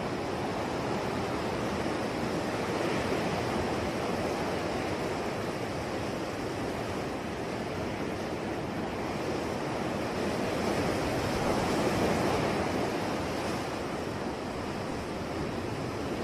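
Ocean waves washing onto a shore: a steady surf hiss that swells gently and eases, cresting about three seconds in and again near twelve seconds.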